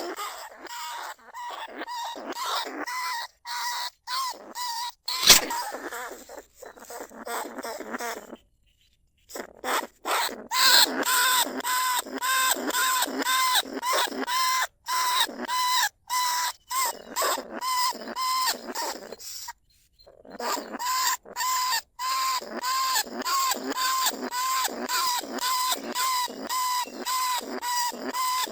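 A small bandicoot rat calling from inside a trap cage: a rapid series of short, high squeaking calls, several a second, each on a steady tone. The calling cuts off abruptly twice, for under a second each time.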